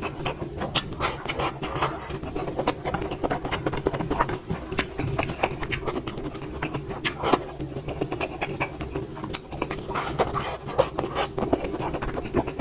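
Close-up eating sounds: chewing and wet mouth smacks, many irregular sharp clicks, over a steady low hum.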